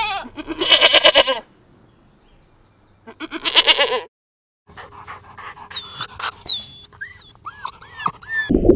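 Goats bleating twice, each a loud, wavering bleat, then after a brief cut a small puppy whining in a run of short, high squeaks. A louder low noise cuts in at the very end.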